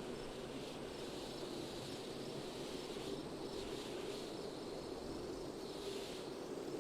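Steady wind blowing, a continuous hiss whose higher part swells and eases every few seconds.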